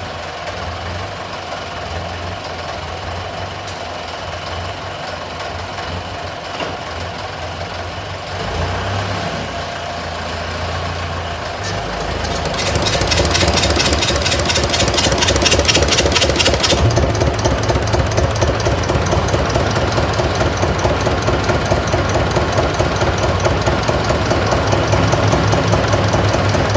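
Diesel engines running as a tractor belt-drives the Massey baler's Armstrong Siddeley diesel to try to start it. About twelve seconds in, the running grows louder with a fast, even knocking beat, and for a few seconds a rapid high ticking rides on top.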